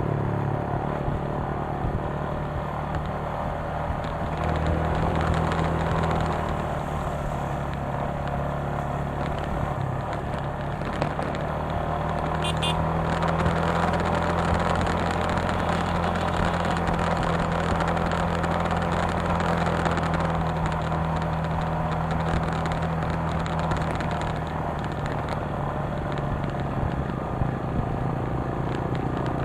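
Motorcycle engine running steadily while riding, its pitch shifting a little now and then, with a noisy hiss over it.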